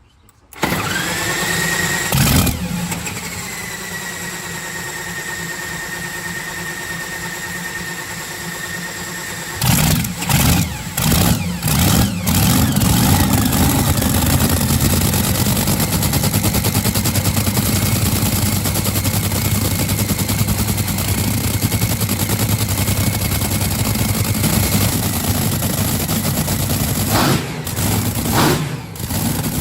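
Keith Black Hemi 8.2-litre nitro-fuelled V8 of a Top Fuel dragster being spun over with a steady high whine for about ten seconds. It then fires with a series of loud cracks, catches and runs loudly and roughly, with two brief dips near the end.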